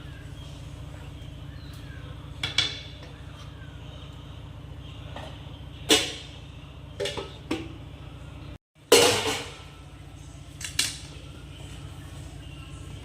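Metal utensils clinking and knocking against cookware, about six separate strikes, the loudest about six seconds and nine seconds in, over a steady low hum.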